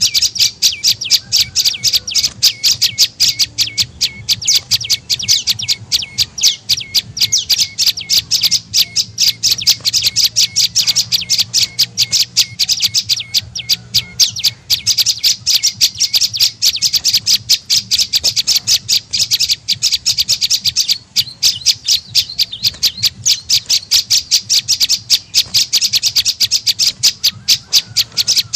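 Prenjak lumut calling as a lure call: a fast, unbroken string of sharp, high chattering notes, several a second, with a brief falter about 21 seconds in.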